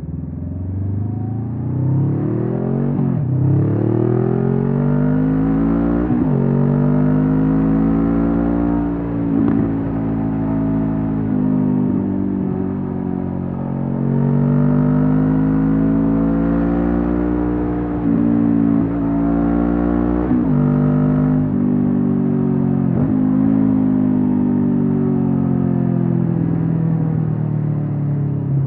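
A Honda CB500F's parallel-twin engine running through a Mivv GP Pro aftermarket exhaust. It accelerates up through the gears, the pitch dropping sharply at each upshift, then eases off for a few seconds. It pulls through two more gears and settles into a steady cruise near the end.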